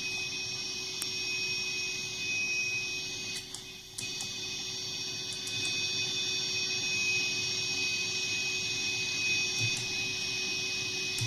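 Steady electronic hiss with high-pitched whine tones and a lower hum from a TC-Helicon VoiceLive 3 vocal/guitar effects pedal, with no instrument playing into it. The noise is the pedal's own, the sign of a noise fault in the unit, which the owner puts down to the pedal itself. It dips briefly a little under four seconds in, then carries on.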